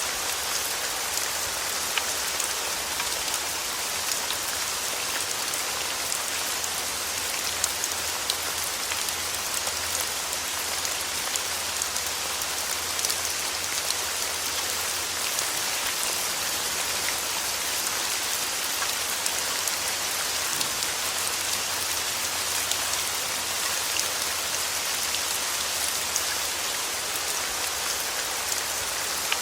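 Steady rain falling on a surface, a dense even hiss with fine pattering drops, unchanging throughout.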